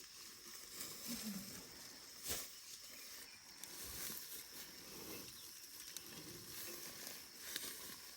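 Faint outdoor field ambience: a soft, even hiss with a few light knocks and rustles, one knock about two seconds in, and no engine running.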